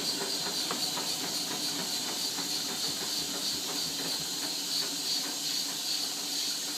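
Bendix 7128 front-loading washing machine on its wash cycle, the drum turning with water sloshing inside. A steady hiss runs over faint rapid ticking, which the owner hopes is only the door seal.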